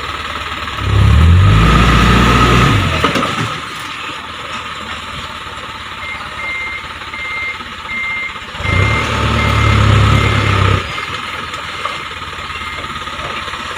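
Heavy diesel machinery running steadily. The engine surges loudly under load twice, about a second in and again near nine seconds. A high reversing alarm beeps about twice a second through the second half.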